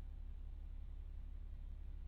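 KiHa 40-series diesel railcar's engine idling while the train stands still, heard inside the passenger car as a faint, steady low rumble.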